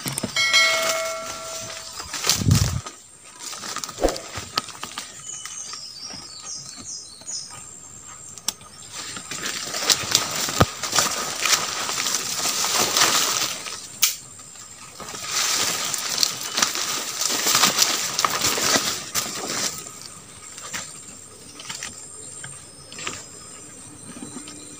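Rustling of leaves and brush with crackles of twigs, in long bursts through the middle, as someone moves through forest undergrowth looking for a branch.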